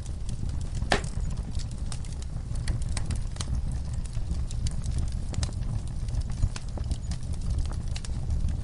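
Wood fire in a fire pit crackling and popping, irregular sharp pops from burning logs and coals with one louder pop about a second in, over a steady low rumble.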